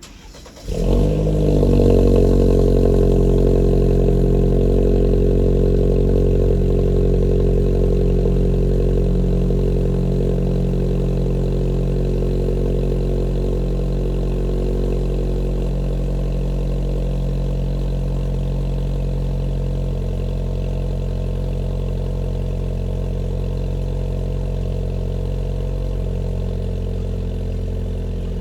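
BMW F30 320i's turbocharged four-cylinder engine, breathing through a custom exhaust with an extra pipe off the rear muffler, starting about a second in, flaring up and then settling into a steady idle that slowly gets quieter.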